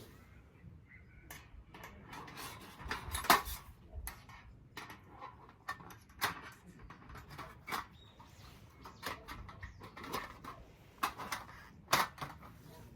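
Irregular clicks, knocks and light clatter of small objects being handled, the sharpest knocks about three seconds in and near the end.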